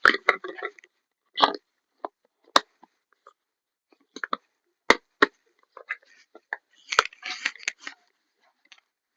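A series of irregular sharp cracks and short crunching knocks, about a dozen spread unevenly through the stretch with quiet gaps between them.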